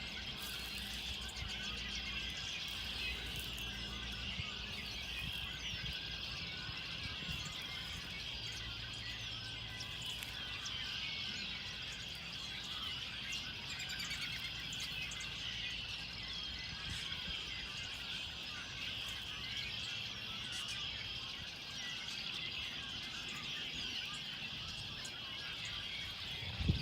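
Birds chirping and singing, many short overlapping calls running on without a break over a low background rumble.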